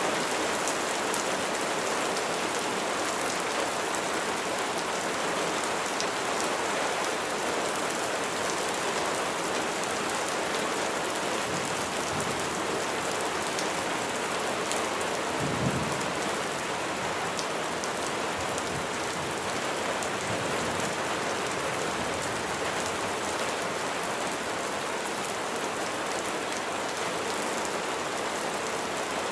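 Steady rain falling on a surface, a dense even patter with scattered individual drop ticks. A brief low thump comes about halfway through.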